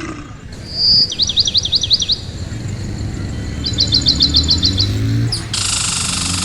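A bird calling: a short whistle, then a quick run of rising-and-falling notes, and later a fast series of about ten short notes. About five and a half seconds in, a steady high hiss starts abruptly, with a low hum underneath throughout.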